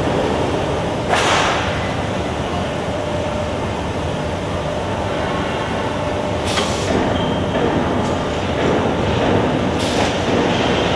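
Automatic sheet-metal HVAC duct production line running with a steady machinery din. Three short, sharp bursts of noise cut through it: about a second in, at about six and a half seconds, and near the end.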